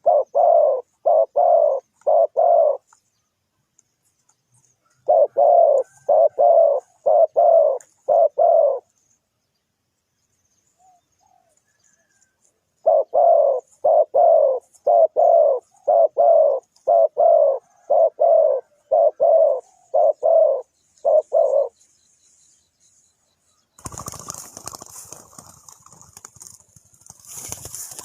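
Spotted dove cooing in three bouts of short, evenly spaced coo notes, the last bout the longest, with silent pauses between them. Near the end the cooing stops and a rough, hissy noise takes over.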